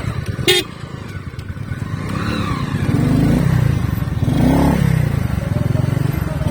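Motorcycle engine running on the move, with steady dense firing pulses. There is a short sharp sound about half a second in. The engine grows louder from about two seconds in.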